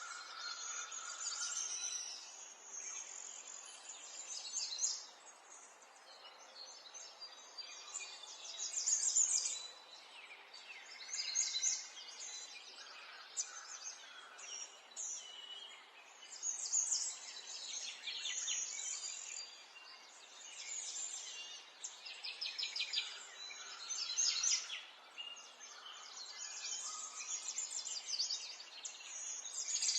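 Several songbirds chirping and singing, with quick trills and short calls overlapping one another in bouts every few seconds, over a faint steady outdoor hiss.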